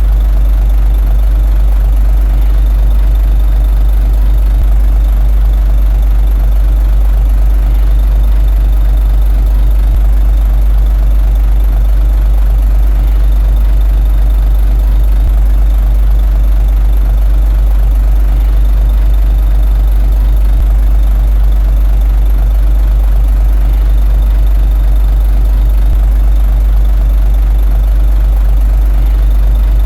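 Komatsu D21A bulldozer's diesel engine running steadily, heavy and low, with no change in pitch or level.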